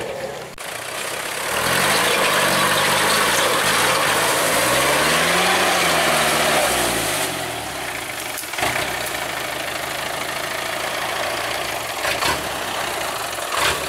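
Truck engine idling, revved up and held for several seconds from about two seconds in, then let back down to idle; a couple of sharp knocks come later.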